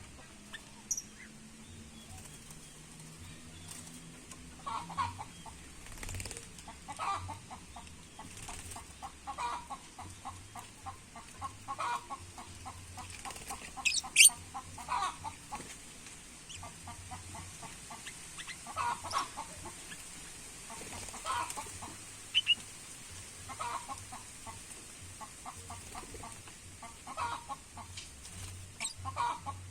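Birds calling in a small aviary: a short, rapid rattling call repeated every couple of seconds, with a few sharp, high chirps, the loudest about halfway through.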